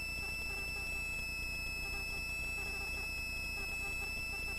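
Steady helicopter cabin noise heard through the intercom feed: a low hum with several thin, high, unchanging whine tones.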